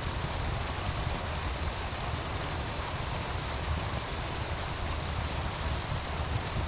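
Meltwater stream rushing steadily, with scattered sharp crackles and pops from an open wood fire and a low rumble underneath.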